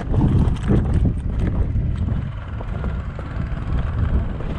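Footsteps of a player on the move, with gear and handling noise knocking against the microphone and a heavy low rumble. The knocks are busiest in the first two seconds, then the sound settles into a steadier low rumble.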